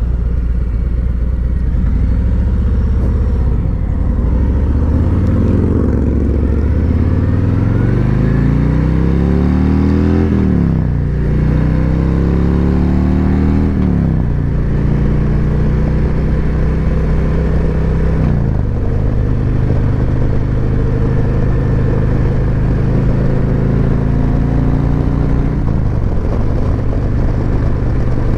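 Harley-Davidson Road Glide Special's V-twin through an S&S slip-on exhaust, pulling away and accelerating with rising pitch, then shifting up. The pitch drops about ten seconds in and three more times after, each followed by steady running in the higher gear.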